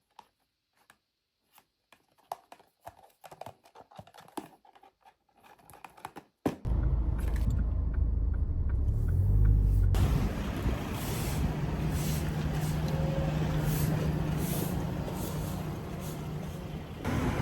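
Faint scattered clicks of typing on a computer keyboard, then an abrupt cut about six seconds in to a loud, steady low rumble with a hiss over it, the kind of outdoor background noise that traffic or wind makes.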